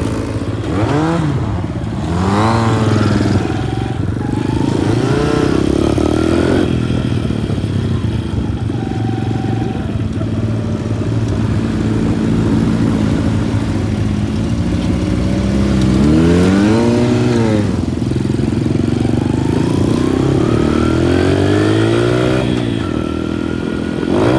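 Motorcycle engine running at road speed, its pitch rising and falling several times as the throttle opens and eases, with a long climb in pitch near the end.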